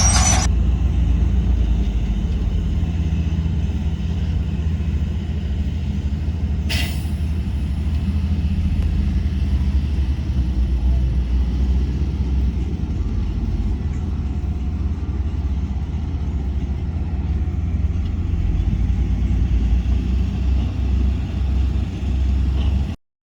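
Heavy diesel earthmoving machinery running steadily with a deep rumble. A high-pitched squeal stops just at the start, there is a single sharp crack about seven seconds in, and the sound cuts off abruptly near the end.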